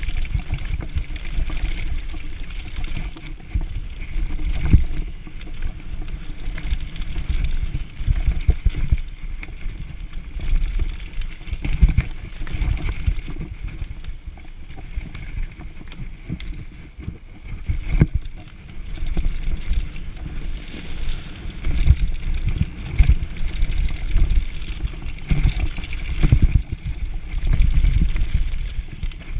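Downhill mountain bike ridden fast down a rough trail: a heavy, uneven rumble with constant rattling and knocking as the bike bounces over bumps.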